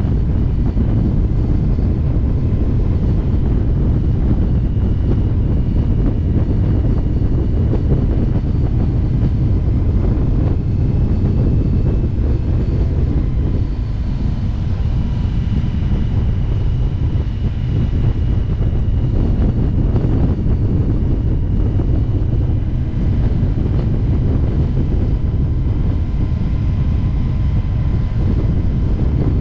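Indian motorcycle cruising at steady road speed: a loud, constant low rumble of engine and wind rush over the microphone, with faint steady whines above it.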